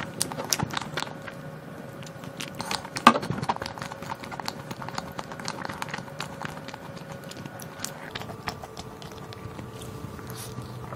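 Close-miked chewing of a crumbly, cream-filled mammoth roll: moist clicks and crisp crackles from the mouth, with one louder click about three seconds in and another bite near the end.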